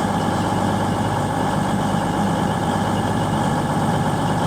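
Great Western Railway Class 800 train running, a steady mechanical hum.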